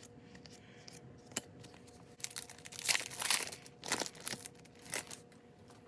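Foil wrapper of a trading card pack being torn open and crinkled: a run of crackly bursts starting about two seconds in, loudest around the middle, then a few short crinkles.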